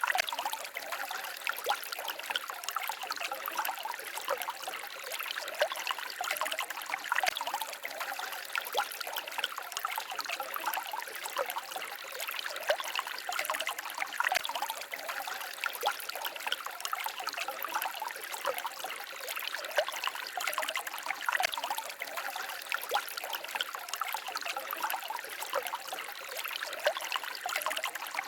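Small forest stream trickling and babbling over stones: a steady, fine splashing with many little plinks and no deep rush.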